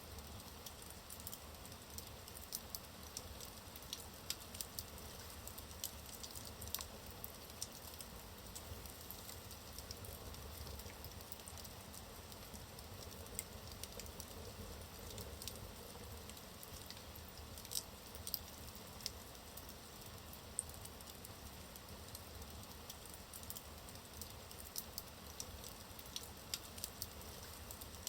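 Wood logs burning in a fireplace, crackling: many small, irregular pops and snaps over a faint, steady low rumble.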